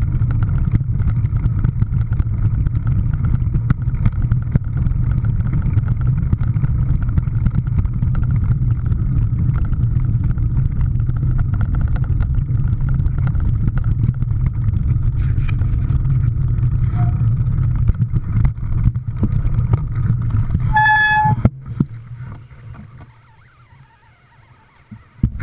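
Steady low rumble of a vehicle driving. About 21 seconds in comes one short horn beep, and then the rumble quickly dies away to quiet.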